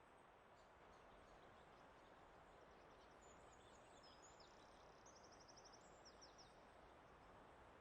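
Very faint forest ambience: a steady soft hiss, with a faint, high, rapidly repeated bird trill from about two and a half to six and a half seconds in.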